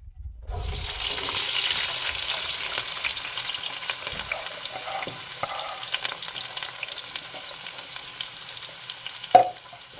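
Food frying and sizzling in a pan, with small clicks of stirring. It starts abruptly about half a second in and slowly eases, and there is a single sharp knock near the end.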